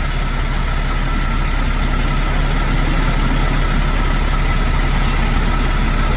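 Large truck engine idling steadily, an even low rumble with no change in speed.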